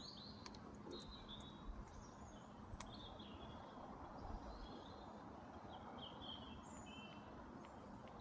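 Faint birdsong: short, scattered high chirps from small birds over a quiet outdoor background.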